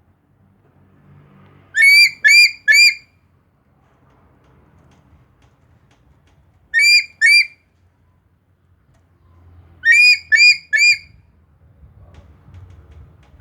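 A bird calling in loud, short, shrill notes, in groups: three calls about two seconds in, two near the middle, and three more near the end.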